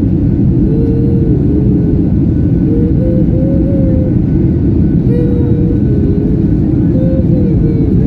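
Airliner engine and airflow noise: a loud, steady low rumble with a thin tone above it that wavers up and down in pitch.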